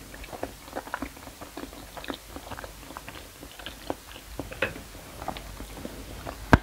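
A person chewing a mouthful of creamy pasta with cheese, making soft, wet mouth clicks and smacks a few times a second.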